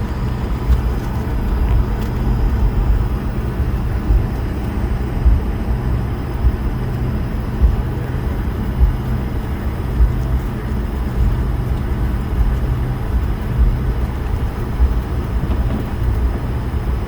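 Airbus A220-300 airliner with its Pratt & Whitney PW1500G geared turbofans running: a steady low rumble with faint steady whining tones above it.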